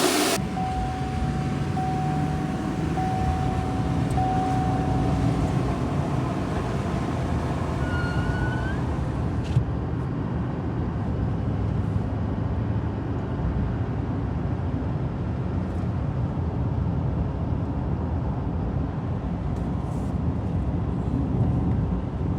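Steady low rumble of a vehicle running. A short rising squeak comes about eight seconds in.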